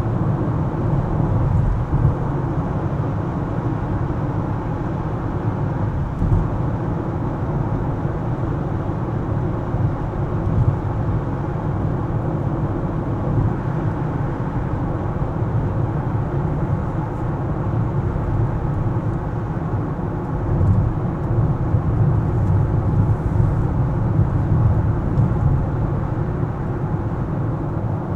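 Car driving on city roads: a steady low rumble of tyres and engine, with a few brief bumps.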